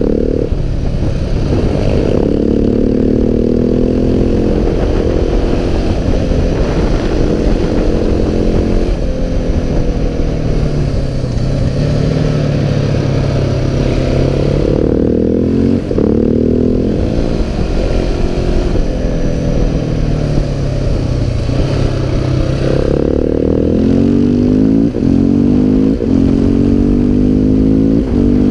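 KTM 690 SMC R's big single-cylinder engine running hard under way, its pitch repeatedly climbing under acceleration and falling away off the throttle, with a few brief drops in level.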